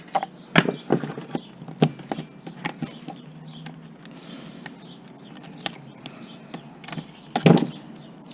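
Irregular clicks and knocks of TV circuit boards and scrap parts being handled and pulled apart by hand, with a louder clatter near the end.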